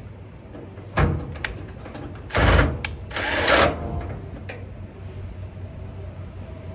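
A sharp click, then a cordless drill/driver run in two short bursts, driving screws while a power cord is fitted to a dryer.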